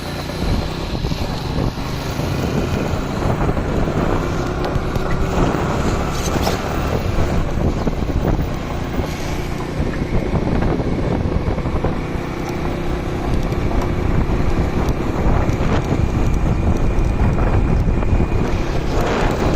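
Motorcycle running on the move, with wind buffeting the microphone throughout.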